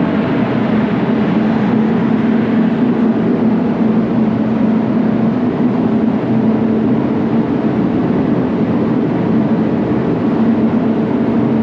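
Paint spray booth's air-handling fans running, a steady loud drone with a constant low hum.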